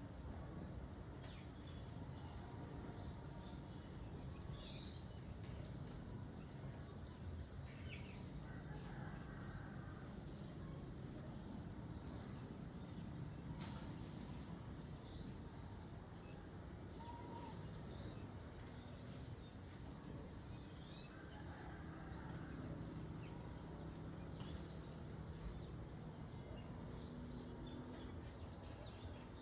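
Tropical forest ambience: a steady high-pitched insect drone with scattered short bird chirps, over a low rumbling noise.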